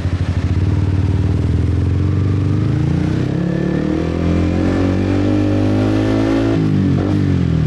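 Motorbike engine running at low revs, then accelerating with its pitch rising steadily for a few seconds before dropping sharply near the end as the revs fall.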